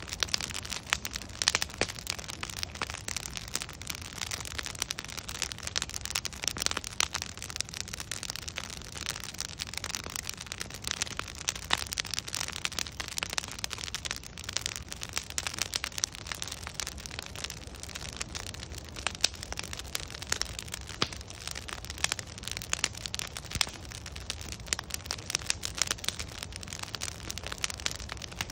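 Wood fire burning with a steady hiss and dense, irregular crackling and popping of logs.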